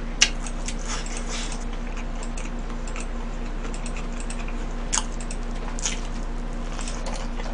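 Close-up chewing and biting of crispy fried chicken: irregular crunchy crackles and clicks, over a faint steady low hum.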